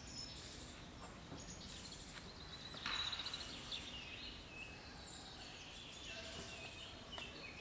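Woodland birdsong: several small birds singing and calling at once, with one louder, rapidly repeated call about three seconds in.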